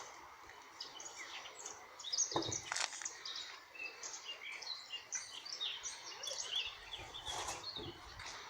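Small birds chirping and singing outdoors, many short high calls overlapping, with a couple of low knocks, one about two seconds in and one near the end.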